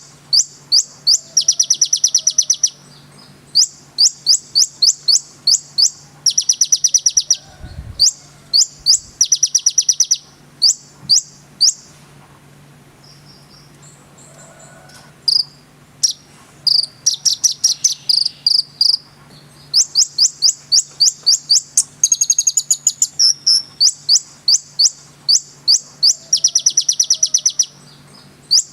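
Konin bird singing: rapid trills of sharp, high chirps repeated in runs of a second or two, with a quieter pause of a few seconds about halfway through.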